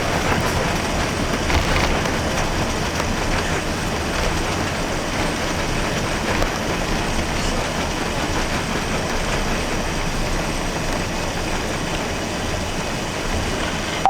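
Cabin noise of an Airbus A380 rolling along the ground after landing: a steady rumble of wheels and engines with small irregular knocks from the landing gear.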